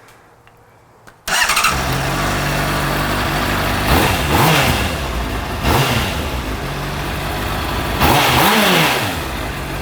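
A 2009 Honda CBR600RR's inline-four engine starts about a second in, then idles on its stock exhaust, with three quick throttle blips that rise and fall in pitch. It is being run after a fresh oil change.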